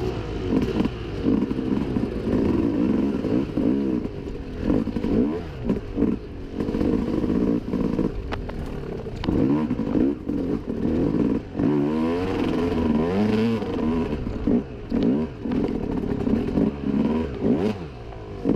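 Dirt bike engine revving up and down as the throttle is worked, rising and falling in pitch and easing off several times, with some clatter: a rider trying to push through deep mud.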